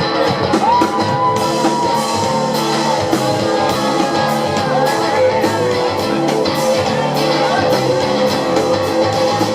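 Live rock band playing an instrumental passage, with guitar over a steady drum beat. A held melody note slides up about a second in.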